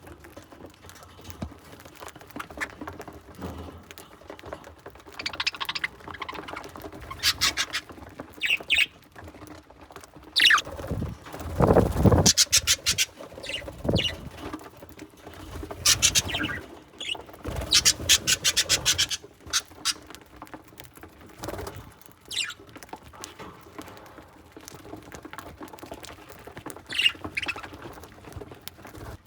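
Budgerigars pecking at millet, their beaks making runs of rapid fine clicks in short bursts, with occasional short chirps. A loud low thump comes a little before the middle.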